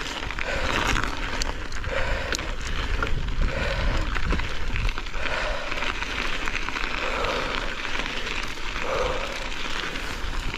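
Strong wind buffeting the microphone: a steady rushing, crackling noise with a deep rumble underneath.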